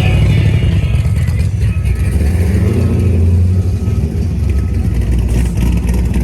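Car engine running with a deep rumble, revving up briefly around the middle.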